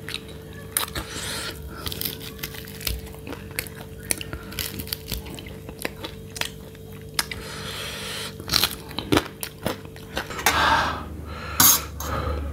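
Close-miked chewing and biting of roasted goat rib meat, with many short, sharp, wet mouth clicks. Near the end a metal fork clicks against the metal baking tray.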